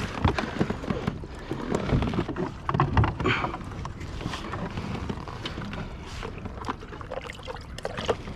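Handling noise aboard a fishing kayak: scattered clicks and knocks, with a few louder thumps about two and three seconds in.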